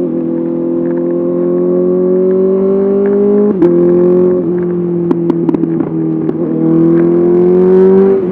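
Honda CBR 650R inline-four through an SC-Project SC1R exhaust, pulling under throttle. Its pitch climbs steadily, then drops abruptly about three and a half seconds in, like an upshift. It climbs again near the end and drops once more, with a few short crackles in between.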